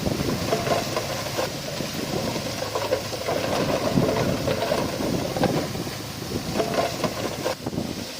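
Heavy diesel earthmoving machinery running steadily, with scattered knocks and clatter.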